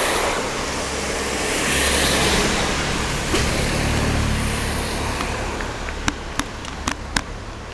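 Traffic on a wet road: a vehicle goes by with a swelling tyre hiss over a low engine rumble, fading out. A few sharp clicks follow near the end.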